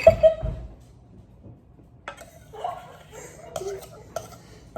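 Kitchen utensils and dishes clinking and clattering: a few sharp clinks from about two seconds in, with faint voices under them.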